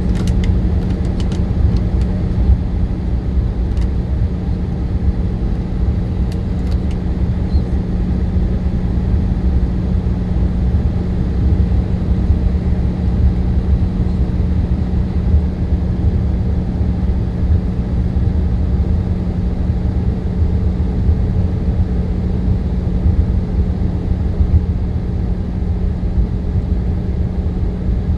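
Jet airliner running steadily: a low rumble with a constant hum, and a few faint clicks in the first several seconds.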